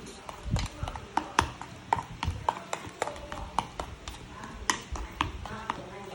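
A utensil clicking and knocking against a bowl while stirring mashed egg and mayonnaise filling: irregular sharp taps, two or three a second.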